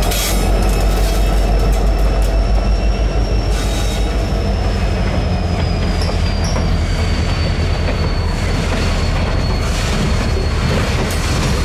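Norfolk Southern freight train rolling by at close range: a steady heavy low rumble, with a thin high wheel squeal held almost throughout and occasional clicks of wheels over the rail joints.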